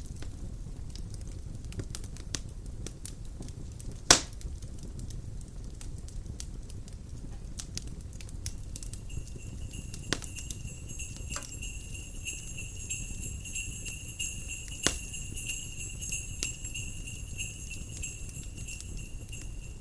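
Wood fire crackling, with scattered snaps and one loud pop about four seconds in, over a low steady rumble. From about halfway through, jingle bells ring steadily until just before the end.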